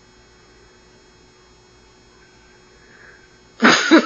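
Faint steady electrical hum and hiss, with a voice breaking in loudly near the end.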